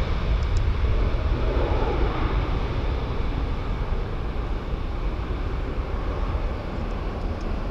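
Jet airliner engine rumble dying slowly away after the aircraft has passed, with wind on the microphone.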